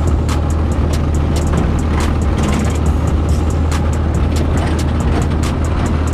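Off-road buggy engine running under way with a steady low rumble, and many short clicks and rattles from the vehicle jolting over rough ground.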